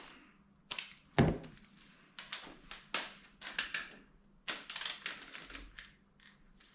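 Irregular metallic clinks and knocks of hand tools and bolts on the engine as a bracket is unbolted, with one heavier thunk about a second in.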